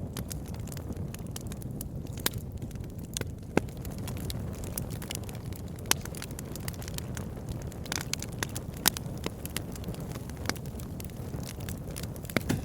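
Campfire burning: a steady low rumble of flames with irregular sharp crackles and pops, a handful of them louder than the rest.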